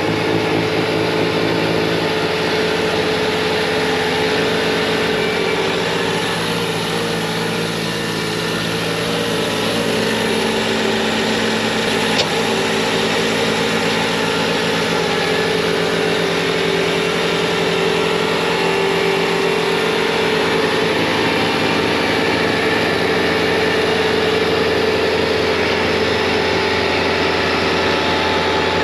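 Bobcat T66 compact track loader's diesel engine running steadily at full throttle, driving a snowblower attachment through wet snow. There is a single sharp click about twelve seconds in.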